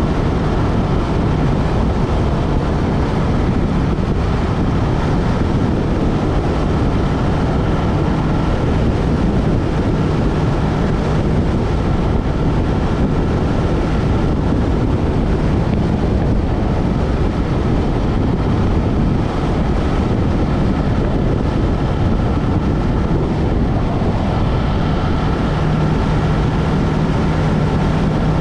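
Yamaha MT-03 motorcycle riding at a steady cruise, its engine tone faint under heavy wind rush on the action camera's microphone and coming through more clearly near the end.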